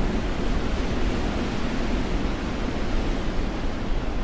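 Strong storm wind buffeting the microphone: a steady rushing noise with a heavy low rumble.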